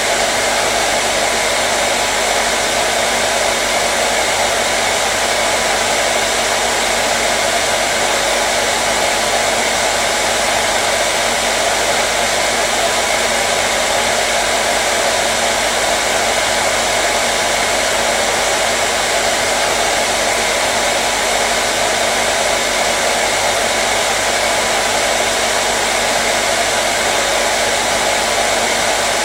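Hair dryer running continuously at a steady speed, a constant whooshing blow of air with a faint motor hum, used as soothing white noise.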